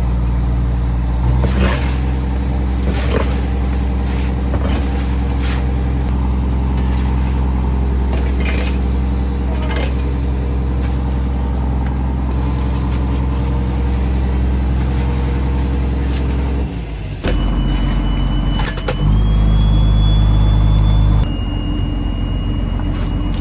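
Fishing trawler's diesel engine running steadily with a thin high whine. Its pitch rises slightly early on, falls away sharply about 17 seconds in, then steps up and down twice as the speed changes. A few short knocks are heard over it.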